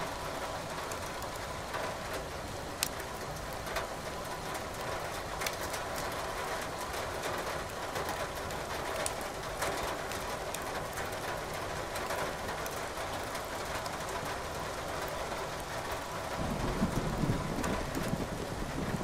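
Steady rain with wood crackling and popping in a fireplace, scattered sharp snaps. A low rumble swells briefly near the end.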